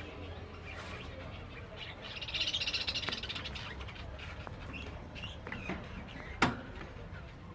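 Small caged finches chirping, with a short high buzzing trill about two seconds in and a sharp click near the end.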